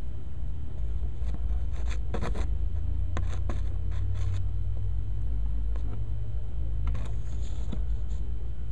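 A steady low rumble with scattered short scraping and rustling noises close to the microphone, about two to three seconds in and again around seven seconds in.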